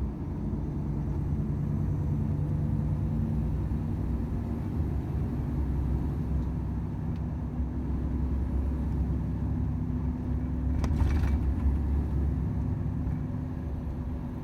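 Volvo FH 500 truck's 13-litre straight-six diesel running steadily on the road, with a low drone and road rumble. A short burst of noise comes about eleven seconds in.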